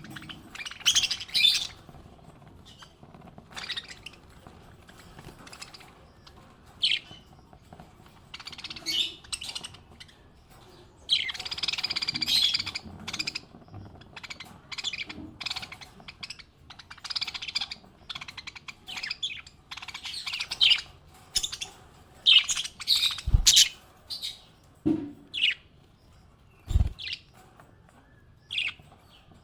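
Small pet parrots chirping and chattering in short, irregular bursts, with a denser run of chatter about a third of the way in. Two brief low thumps come in the latter part.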